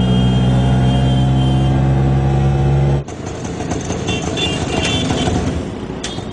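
Motor vehicle engine running steadily at idle, a loud even hum that cuts off abruptly about three seconds in, leaving general street traffic noise.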